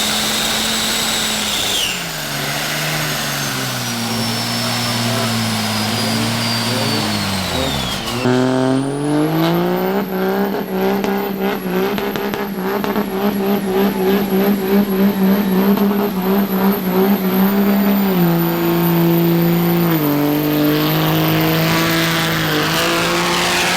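Diesel truck engine revving: the revs sag over the first several seconds with a high whistle falling along with them. About eight seconds in the engine is suddenly revved hard and held at high revs for about ten seconds with a steady high whine, then the revs step down twice.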